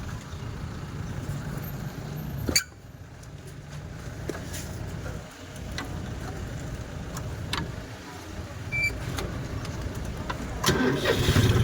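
Tractor engine running with a steady low rumble, with a sharp click a couple of seconds in and the engine growing louder near the end.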